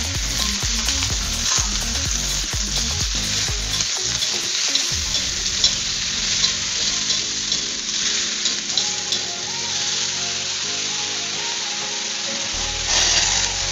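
Sliced luffa frying in hot oil in a metal wok, sizzling steadily while a metal spatula stirs it with scattered scrapes and clicks against the pan. About a second before the end the sizzle surges louder as boiling water is added.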